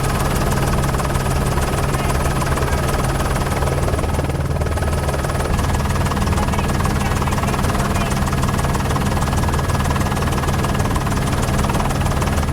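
News helicopter's rotor and engine running in flight, a steady, unbroken drone with strong low rumble.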